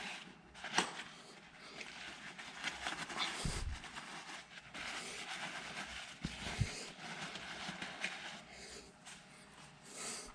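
Irregular rustling, shuffling and knocking of engine parts and tools being handled by hand, with a sharp click about a second in and a few more knocks later.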